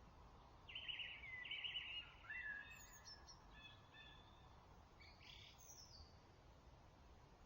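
Faint dawn-chorus birdsong: a songbird delivers a phrase of quick repeated notes about a second in, followed by thinner whistled notes and another short call near the end, over a steady low background hiss.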